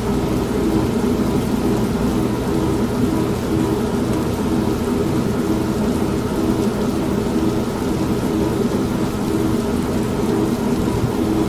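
Old manual washing machine running with a steady, pulsing hum, mixed with continuous rain and thunder.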